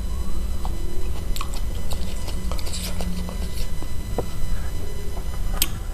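Close-up chewing and biting on spicy chicken feet: scattered small wet smacks and clicks, with one sharper click near the end, over a steady low hum.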